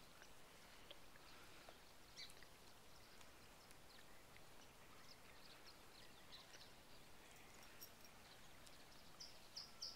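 Near silence: faint outdoor ambience with a few scattered faint high chirps.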